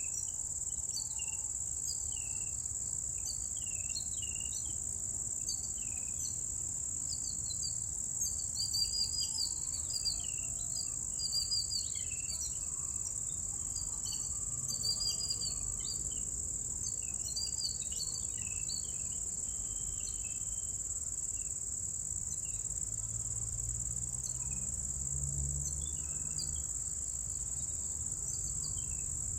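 A steady high-pitched insect trill, like crickets, runs without a break while many small birds chirp over it in short calls, busiest in the middle stretch.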